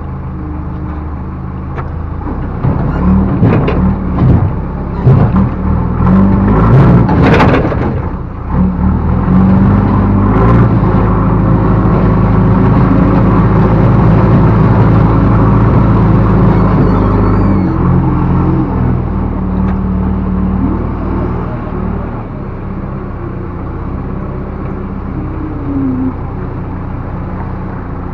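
Backhoe loader's diesel engine running under work load, with a burst of knocks and clatter between about three and eight seconds in. It then holds steady at higher revs before dropping back to a lower idle about two-thirds of the way through.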